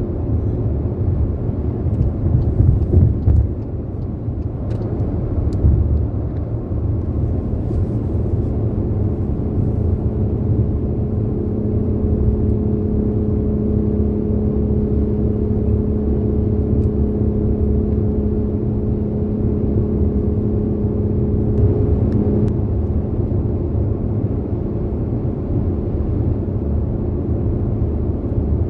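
Car driving along a road, heard from inside the cabin: a steady low rumble of tyres and engine. A steady hum joins it about nine seconds in and stops about twenty-two seconds in.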